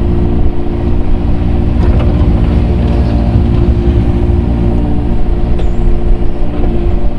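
Diesel engine of a compact earthmoving machine running steadily at a constant working speed while grading dirt.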